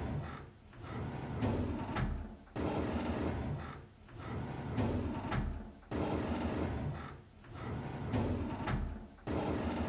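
A drawer sliding open on its runners, a rough scraping rumble, repeated over and over. Each cycle starts abruptly and repeats about every three and a third seconds, with a short dip partway through.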